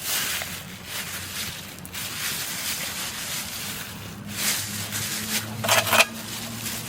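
Rustling and handling noises, with a louder crinkly rustle about four and a half seconds in and another just before six seconds.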